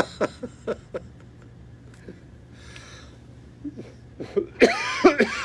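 Brief voice sounds, then a steady low room hum, and a short loud vocal outburst from a person near the end.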